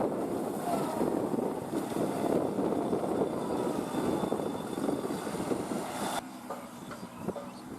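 Kubota NeoStar B2441 mini tractor's diesel engine running, cutting off to a quieter sound about six seconds in.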